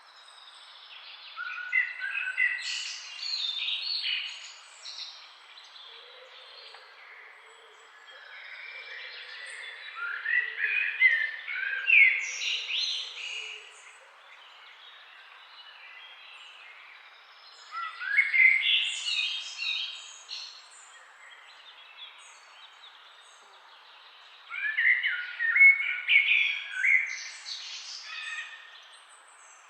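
Songbird singing, four song phrases of three to four seconds each, about seven seconds apart, over a steady faint background hiss.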